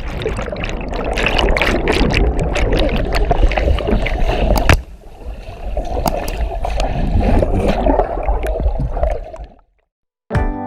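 Water splashing and sloshing with a low wind rumble on the microphone and scattered knocks. It dips briefly about five seconds in and cuts off to silence near the end.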